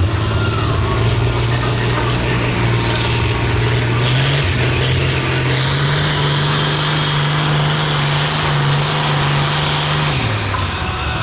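Hot stock pulling tractor's diesel engine running hard under load, with a high whine climbing above it. The engine note steps up about four seconds in, holds, and falls away near the end.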